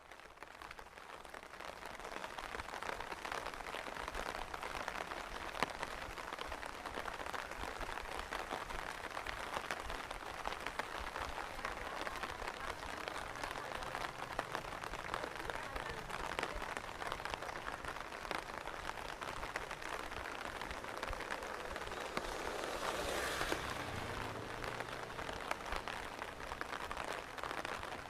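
Steady rain falling, an even hiss with scattered close drop ticks, fading in over the first couple of seconds. About three-quarters of the way through it swells briefly louder, followed by a faint low hum for a few seconds.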